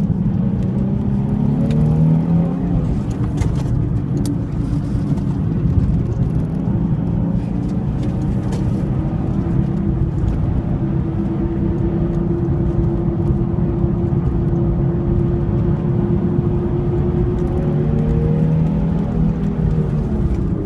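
Nissan 350Z's V6 engine pulling around a circuit. The engine note shifts in pitch in the first few seconds, holds one steady pitch for about ten seconds, then changes again near the end.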